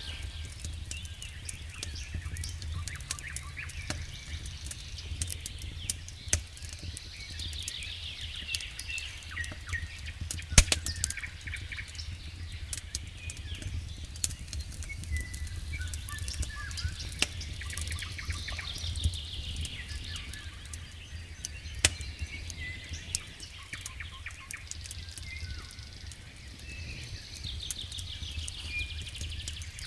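Campfire crackling, with scattered sharp pops and a few louder snaps. Songbirds sing repeated trilling phrases every several seconds over a steady low rumble.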